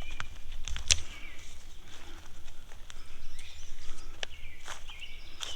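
Wild birds calling in short phrases several times, with a few sharp clicks.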